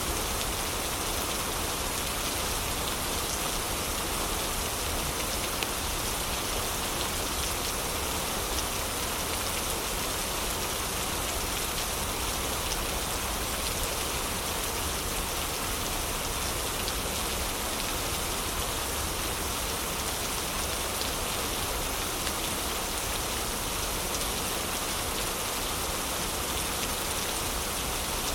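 Steady heavy rain: an even, unbroken hiss of falling rain with a few faint ticks of single drops.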